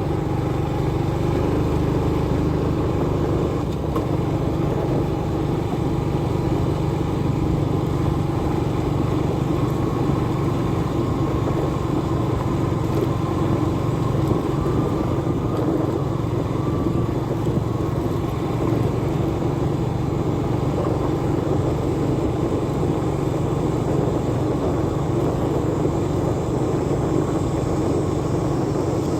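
Motorbike engine running steadily under way, with a constant low rumble of road and wind noise.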